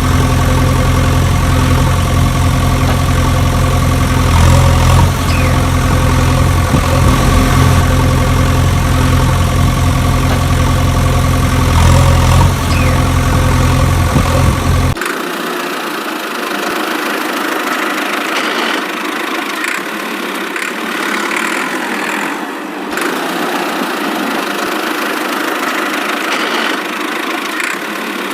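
Tractor engine idling with a steady, low, even hum. About halfway through it cuts off abruptly and a thinner, higher, noisier sound takes over.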